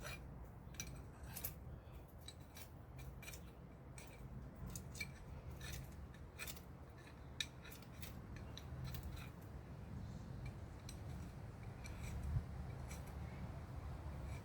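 Light, irregular metallic clicks and scrapes of small metal tools and parts being handled and worked, over a low steady hum; one sharper knock about seven seconds in and another near twelve seconds.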